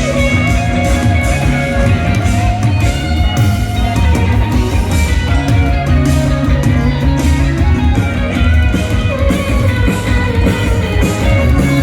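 Rock band playing live, a guitar solo over drums and bass, loud and unbroken.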